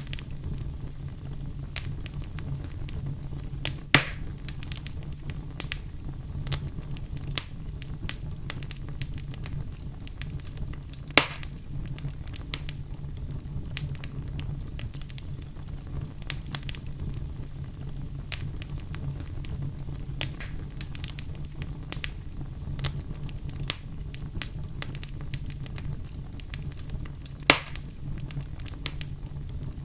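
Wood campfire burning and crackling, with many small ticks and three louder pops over a steady low rumble of the flames.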